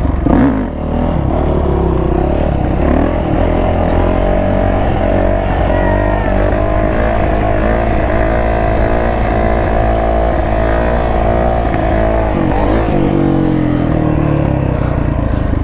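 Yamaha YZ450F four-stroke single-cylinder dirt bike engine revving under throttle. It is held at steady high revs for several seconds, wavering slightly, dips briefly about twelve seconds in, then picks back up.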